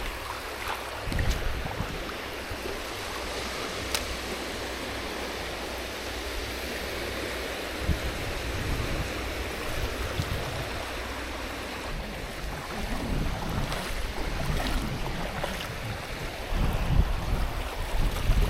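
Surf washing onto a sandy beach as a steady rush of noise, with wind buffeting the microphone, heavier near the end.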